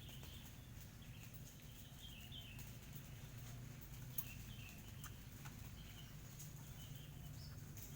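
Small birds chirping faintly in short, scattered calls, some falling in pitch, over a steady low hum, with a few light clicks.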